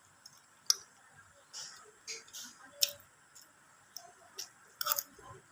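Close-miked eating sounds: wet mouth smacks and chewing, with several sharp clicks, the loudest about a second in, near three seconds, and a quick cluster near the end.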